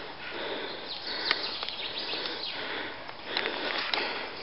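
Outdoor noise that swells and eases about once a second, with a few short high bird chirps.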